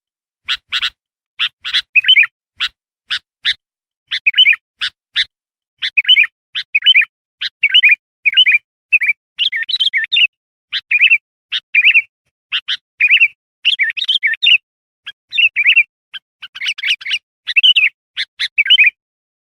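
Bulbul (kutilang) singing a fast series of short, sharp chips and bubbly warbled phrases, with clean silence between the notes, played as a lure call to draw in wild bulbuls.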